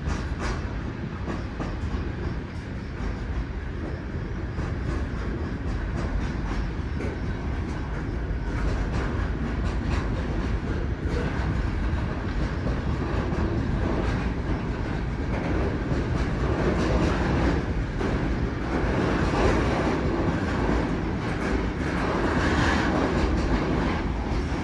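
Train running past on the tracks: a steady rumble with wheels clicking over the rail joints, growing somewhat louder in the second half.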